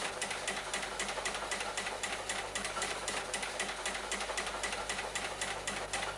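An insect chirping in an even, rapid rhythm of about eight pulses a second, running steadily.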